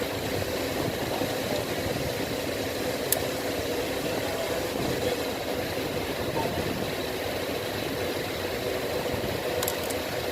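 Engine idling steadily, with a couple of faint light ticks.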